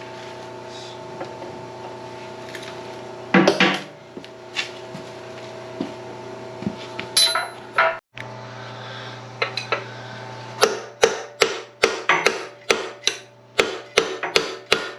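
Hammer striking metal in a steady run of blows, about three a second, starting a little after halfway through, as a locating roll pin is driven out. Before that, a few scattered metal clanks over a steady hum.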